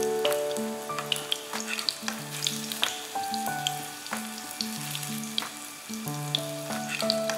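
Tofu-and-pork steak patties frying in hot oil in a nonstick pan: a steady sizzle with frequent small crackling pops. Background music with held notes plays underneath.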